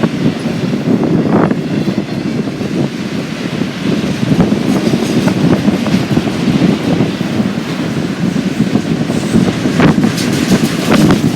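Freight train cars rolling past with a steady rumble, their wheels clacking over rail joints, the clicks coming more thickly near the end.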